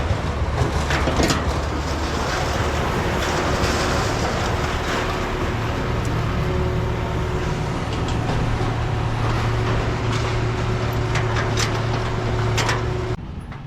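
A heavy engine running steadily with scattered metal knocks, the sound of scrap being unloaded by machine. It cuts off suddenly near the end.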